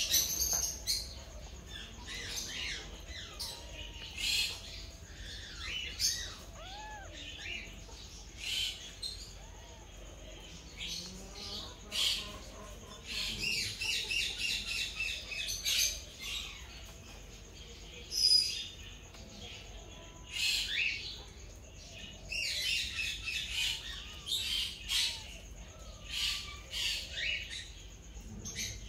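Small birds chirping and twittering in quick, high-pitched runs of notes, over a low steady background hum.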